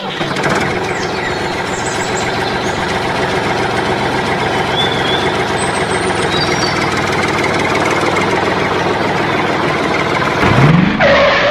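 Tractor engine running steadily, with a brief sweep in pitch near the end.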